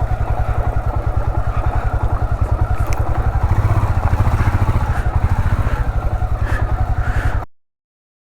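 Royal Enfield Himalayan's single-cylinder engine running at low revs with a steady, even pulse. It cuts off suddenly near the end.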